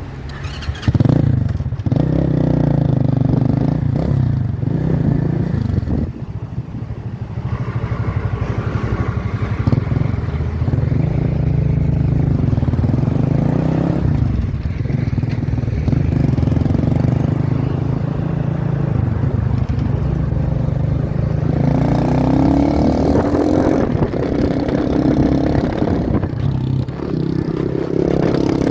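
Motorcycle engine running under way, its revs rising and falling several times, with a quick rise about a second in and another climb near the end, mixed with wind noise.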